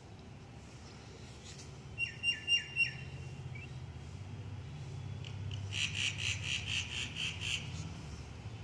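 A bird chirping: four short, falling chirps about two seconds in, then a quick run of about eight high chirps a little later, over a low rumble that grows louder.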